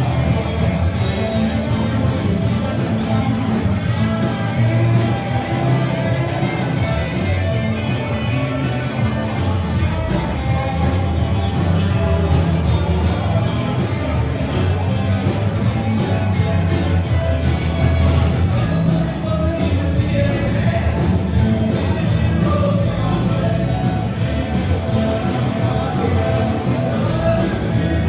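Rock band playing live, with a steady drum beat and singing.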